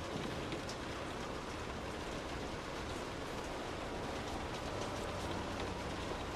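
Soft, steady rain falling, with many small individual drops ticking through it.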